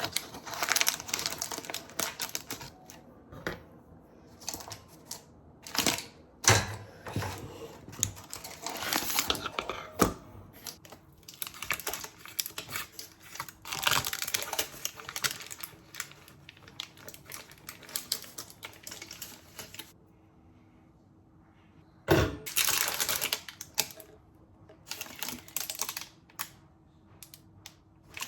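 Kitchen handling sounds: irregular sharp clicks, taps and short scrapes of utensils and dishes, pausing briefly about twenty seconds in.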